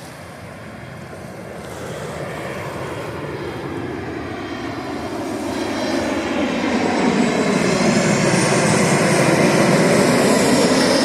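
Airplane passing low overhead, its engine noise growing steadily louder to a peak near the end.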